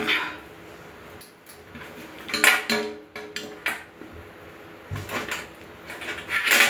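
Metal grill parts clanking and rattling as they are handled and fitted together: several separate light knocks, the loudest about two and a half seconds in and just before the end.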